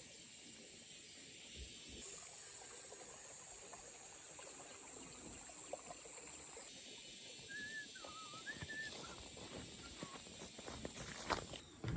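Quiet countryside ambience: a steady high insect drone, a short warbling bird call about eight seconds in, and scattered rustling and clicks building near the end.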